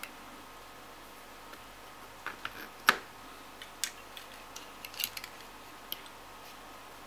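Scattered light clicks and taps of small parts and tools being handled on a workbench, the sharpest about three seconds in, over a faint steady hum.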